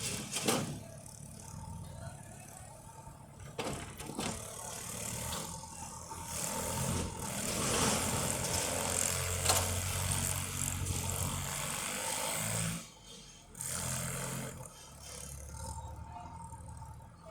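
Farm tractor engine running steadily, with a couple of sharp knocks and a louder, noisier stretch in the middle.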